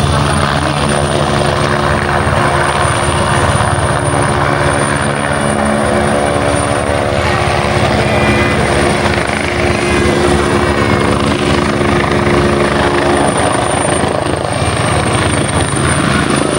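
Helicopter hovering steadily: a continuous deep hum of rotor and engine, with a thin high steady tone above it.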